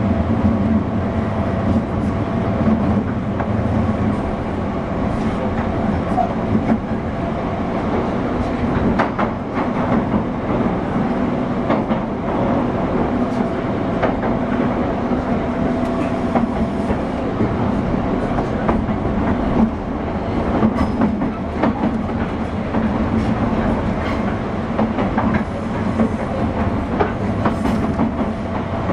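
JR 201-series electric train running, heard inside motor car MoHa 200-200: a steady traction-motor hum over rolling noise, with scattered clicks of the wheels over rail joints. This car carries no chopper control gear, so there is no chopper whine.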